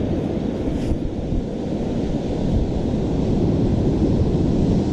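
Wind buffeting the microphone, a steady low rumble, over surf washing onto the shore.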